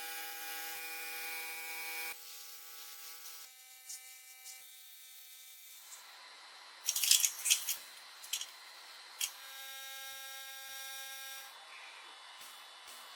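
A small electric power tool running with a steady whine whose pitch shifts several times, as its speed or load changes. A cluster of sharp loud clacks comes about seven seconds in, with a few more shortly after.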